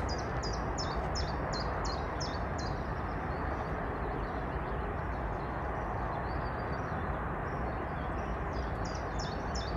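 A small songbird singing a quick run of short high notes, about three a second, at the start and again near the end, over a steady rushing background noise.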